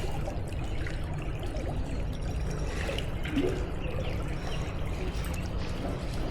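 Shallow river water flowing and trickling steadily over rocks.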